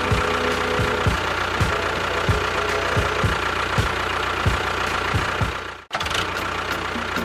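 Engine-like running sound with a regular low thump, which cuts out for a moment about six seconds in and then resumes.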